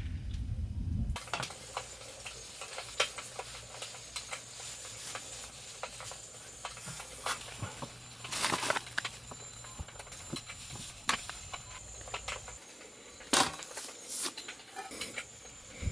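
A run of small clicks, taps and rustles of objects being handled, with a low rumble in the first second and two louder clicks, one about halfway through and one near the end.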